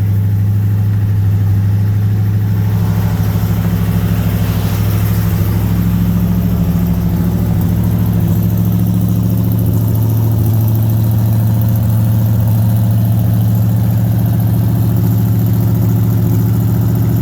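1976 Oldsmobile Cutlass Salon's 455 Rocket V8 idling steadily through its dual exhaust, warming up after a cold start from several weeks of sitting.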